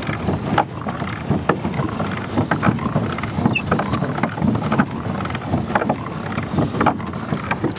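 Pedal boat being pedalled: its paddle wheel churning and splashing water in a steady rhythm.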